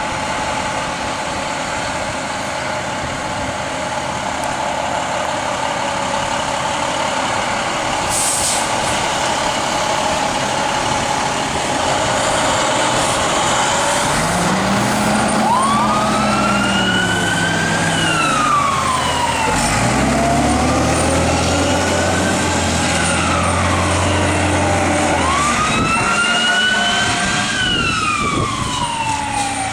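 Whelen electronic sirens on a fire engine and an ambulance wailing in slow rising-and-falling cycles from about halfway through, over the running of the fire truck's engine. A short hiss comes about eight seconds in.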